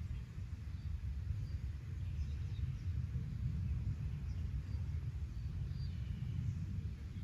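Wind rumbling on the microphone, with faint short bird chirps over it.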